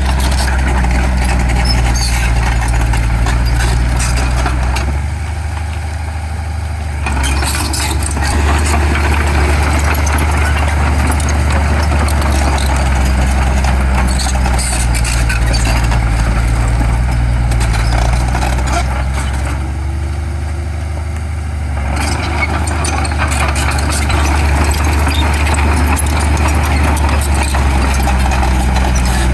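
Heavy diesel earthmoving machinery working under load: a deep, steady engine note with clattering over it. It eases off twice, near the quarter mark and again after the middle, then picks back up.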